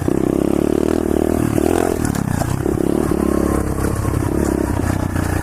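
Pit bike engine running as the bike is ridden, its pitch rising and dipping with the throttle about two seconds in.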